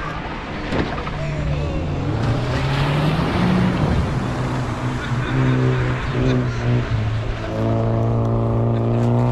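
Rallycross car's engine accelerating hard on wet tarmac: the engine note climbs, drops about four seconds in as it shifts gear, holds, then climbs again near the end, with a hissing rush of tyres on the wet surface for a couple of seconds in the middle.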